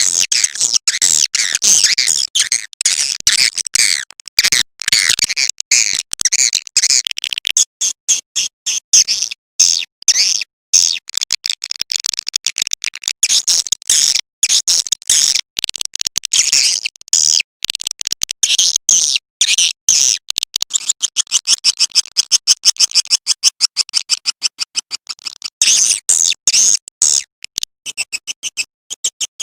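Swiftlet lure-call recording: a dense, rapid stream of high chirping and twittering chatter, the calls used to draw swiftlets into a nesting house.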